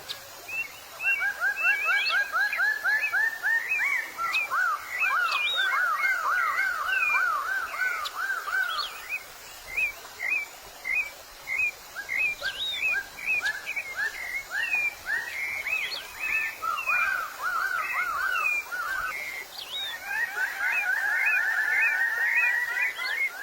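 Several small songbirds singing together: trills of quick repeated sweeping notes, each lasting a few seconds, over scattered higher chirps.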